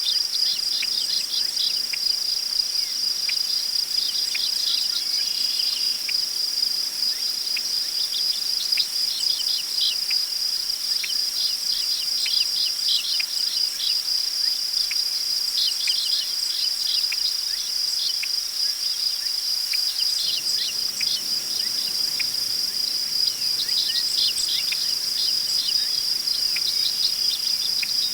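Crickets trilling in a continuous high-pitched chorus, with clusters of short bird chirps scattered over it.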